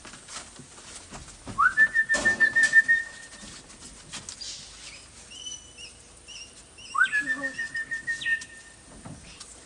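Two long whistles calling parrots, each sliding quickly up and then held on one warbling note.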